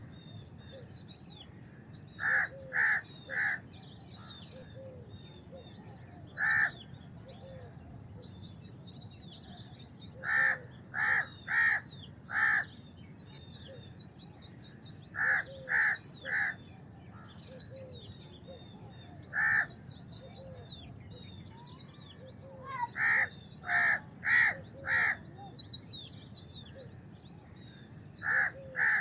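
House crow cawing in short runs of one to four harsh caws, repeated every few seconds. Many smaller birds twitter continuously at a high pitch behind it.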